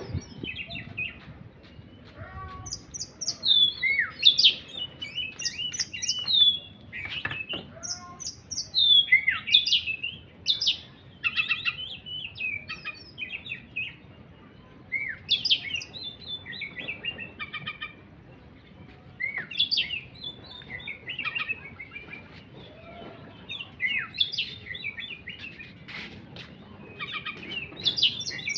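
A songbird singing in quick phrases of short chirps and rising and falling whistled notes, with brief pauses between phrases.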